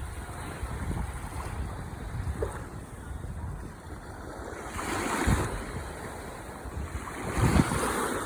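Ocean waves washing onto the shore: a steady hiss of surf with two louder surges, about five and seven and a half seconds in.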